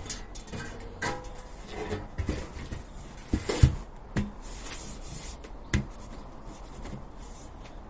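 Hard objects being handled: scattered knocks and clicks with some rubbing, the loudest knock about three and a half seconds in.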